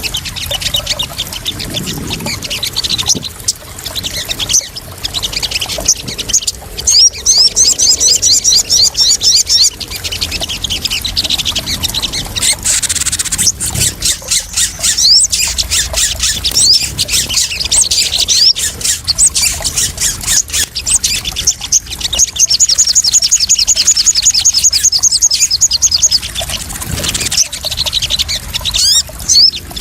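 Sogon sunbird song: runs of rapid high trills and chattering notes, one long trill after another, over a steady background of splashing, trickling water.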